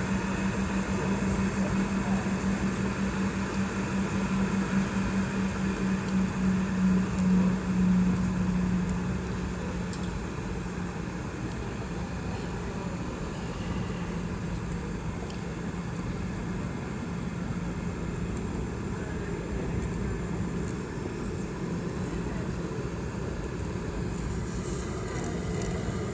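Boeing 717 cabin noise: the rear-mounted Rolls-Royce BR715 turbofans and airflow make a steady drone with a strong low hum, which eases off about nine seconds in and then stays quieter.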